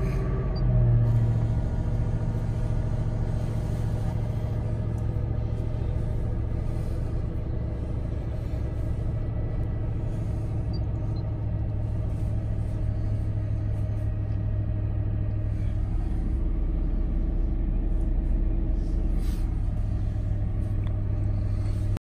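2010 Mercury Grand Marquis's 4.6-litre two-valve V8 idling steadily shortly after a cold start at about 2 °F, with a brief rise about a second in.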